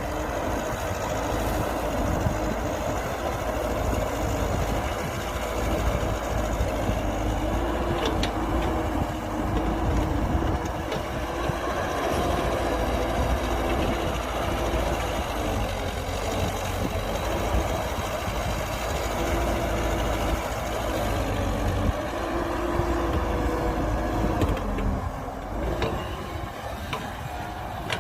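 Heavy diesel earthmoving machinery (bulldozer and dump trucks) running at work, a steady engine drone whose pitch shifts a little, with a few faint clanks.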